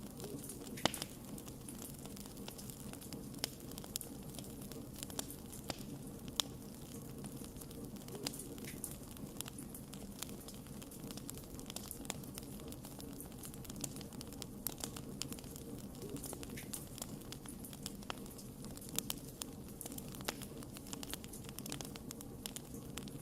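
Wood fire burning with a steady low roar and frequent irregular sharp crackles and pops.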